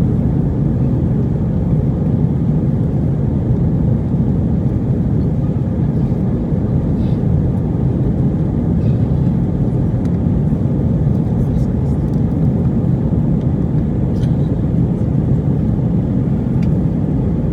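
Steady low rumble of a moving vehicle heard from inside, with no change in pitch or level.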